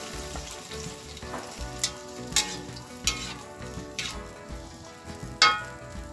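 Spice paste sizzling in hot oil in a wok while a metal spatula stirs and scrapes it. About five sharp knocks of the spatula against the wok, the loudest near the end.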